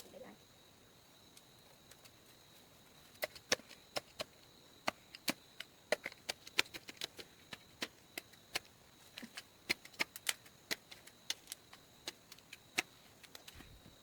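Irregular series of sharp knocks or taps, starting about three seconds in and coming several a second at times, over a faint steady high-pitched tone.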